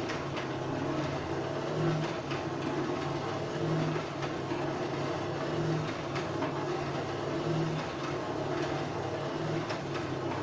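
Blacksmith's coal forge with its blower running, a steady rumble of air through the fire pot that swells about every two seconds, with faint crackling clicks from the fire as a steel ring heats.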